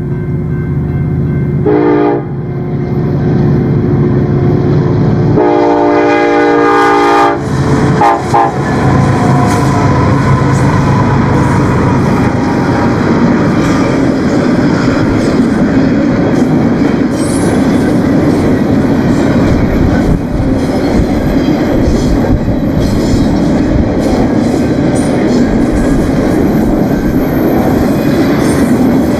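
Union Pacific freight locomotive sounding its air horn over the drone of its diesel engine: a short blast, a long blast a few seconds later, then two quick toots. Then the intermodal train's cars roll past with a steady rumble and clatter of wheels on rail.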